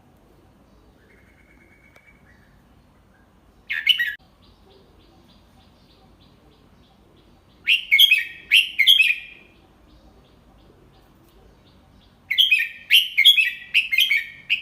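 Red-whiskered bulbul singing clear whistled song phrases: a brief phrase about four seconds in, then longer phrases of several quick notes about eight seconds in and again near the end.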